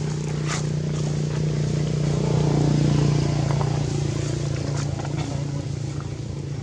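A steady engine hum that grows louder toward the middle and then eases off.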